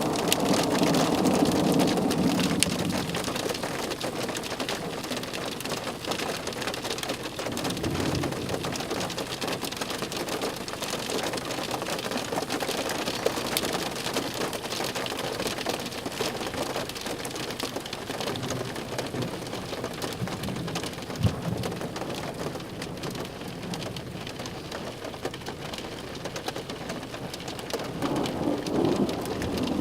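Steady rain falling during a thunderstorm, with a rumble of thunder fading away over the first few seconds and another low rumble near the end.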